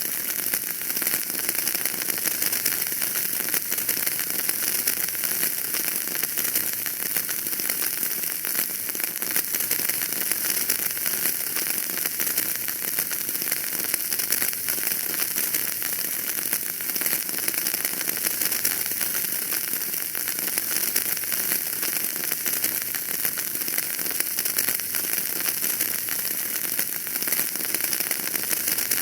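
Wood fire burning in a fireplace, crackling steadily with a dense run of small pops and ticks over a constant hiss.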